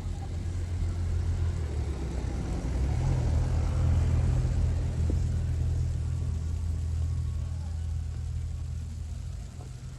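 A motor vehicle passing on the street: a low engine rumble that swells to its loudest about four seconds in, then slowly fades.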